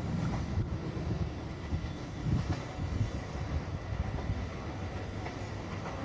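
Passenger train running along the track: a steady low rumble of wheels and cars with faint clicks, easing off slightly near the end.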